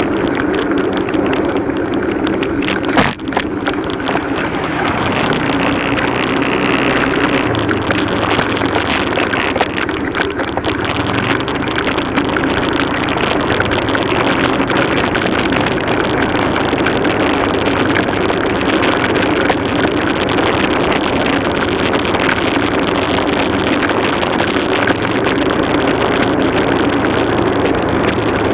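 Motorcycle engine running steadily under way, its pitch shifting now and then, with a single sharp knock about three seconds in.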